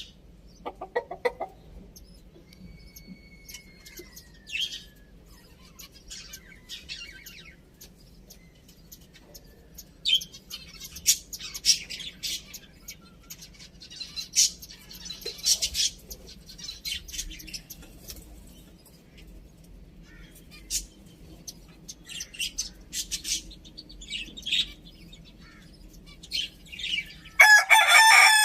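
Chickens with scattered short chirps and clucks, then a rooster crows loudly about a second before the end.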